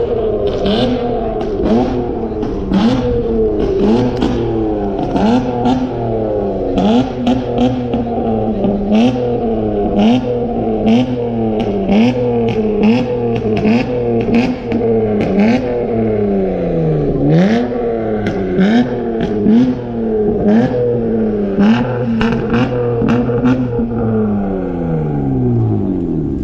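A car engine revved over and over in quick blips, about one a second, its pitch rising and falling, with sharp pops throughout. Twice, about two-thirds of the way in and near the end, the revs fall away more slowly.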